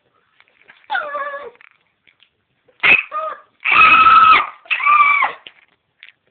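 An animal calling four times in short pitched cries. The first falls in pitch, and the third, about four seconds in, is the longest and loudest.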